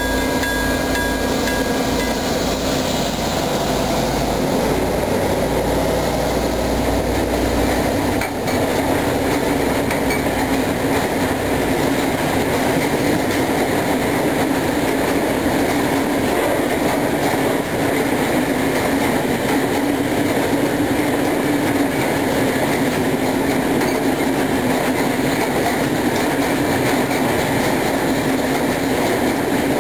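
Two Dv12 diesel locomotives, with SACM MGO V16 engines, pass with a freight train, their low engine drone loud at first. About eight seconds in, it gives way to the steady rumble and clickety-clack of freight wagons rolling past on the rails.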